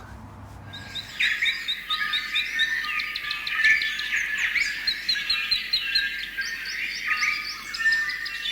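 Several songbirds chirping and singing together in a dense chorus of short whistled notes and trills, starting about a second in.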